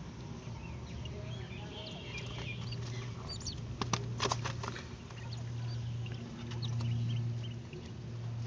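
Coturnix quail chicks cheeping softly while feeding, with a few sharp clicks about four seconds in and a steady low hum underneath.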